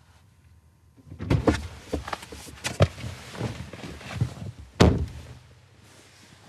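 A run of knocks and thumps, then one loud thump about five seconds in that rings briefly.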